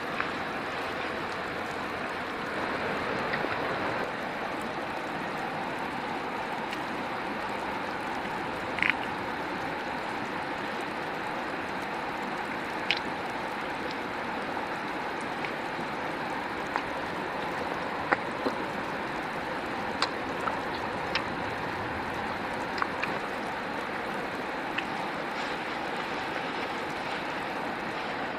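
River water flowing steadily, with a few scattered sharp ticks over it.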